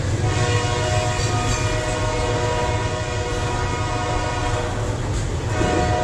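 Freight train of grain hopper wagons rolling past with a steady low rumble. A held, chord-like high tone sounds over it for about three seconds, stops, and starts again near the end.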